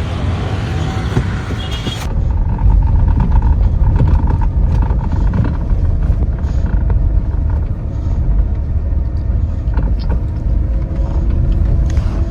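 Steady low rumble of a Hyundai Venue car, with a few faint knocks scattered through it. The sound changes abruptly about two seconds in, after which the rumble is heavier.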